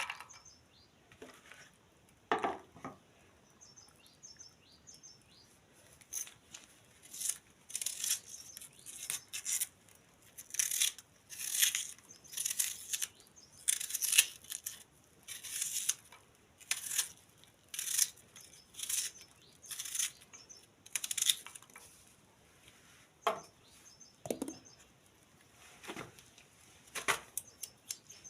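A run of short, rasping strokes, roughly one a second, with a few duller knocks near the start and toward the end.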